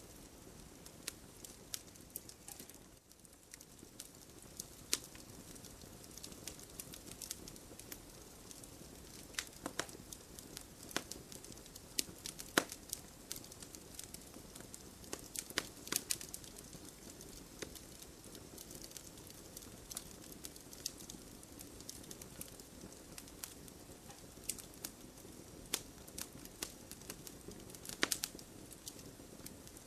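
Wood fire burning in a fireplace, crackling with frequent irregular sharp pops and snaps over a soft steady hiss.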